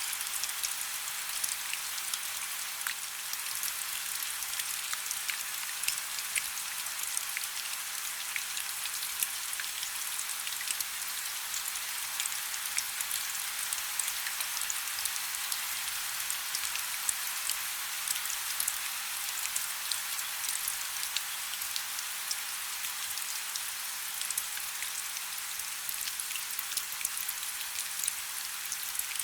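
Steady rainfall: an even hiss of rain with many small, crisp drop ticks, the sound sitting high with little low rumble.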